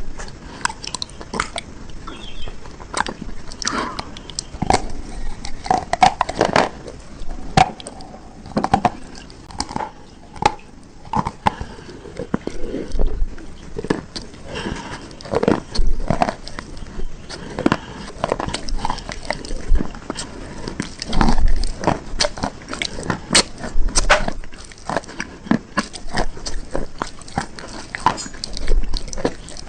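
A person biting into and crunching hard bars close to the microphone: sharp, irregular cracks and crunches in clusters, with chewing between bites.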